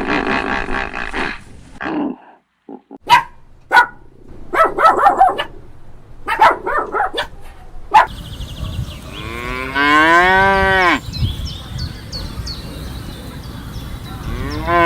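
A cow mooing: one long call that rises in pitch, about two-thirds of the way in, with another moo starting at the very end. Before it come assorted short bursts and clicks.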